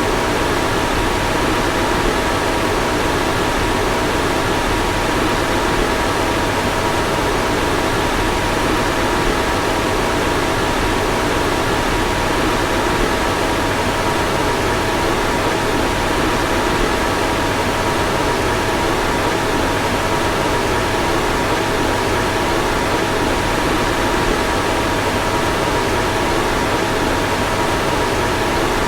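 Car fan running steadily: an even rush of air with two faint, steady tones humming through it.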